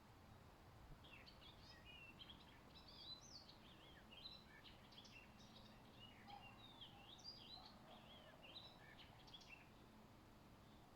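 Songbird singing a long, varied run of quick chirps and whistled slurs. It starts about a second in and stops shortly before the end.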